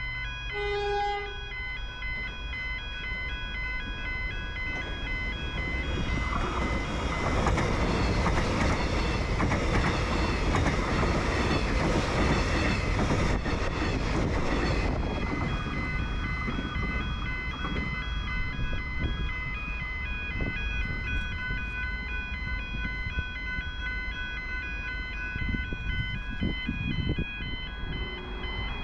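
Electric suburban train passing through a level crossing: the rumble of wheels on rails swells, is loudest from about 7 to 15 seconds in, then eases off. Over it runs the steady electronic two-tone warning alarm of the crossing.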